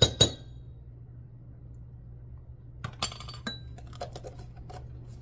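A metal utensil clinking against a dish: the last taps of a quick run of tapping in the first moment, then after a pause a few scattered light clinks and scrapes about three seconds in, over a low steady hum.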